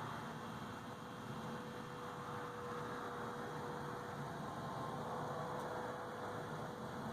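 Steady background hiss with a faint hum and a thin steady tone; no distinct event.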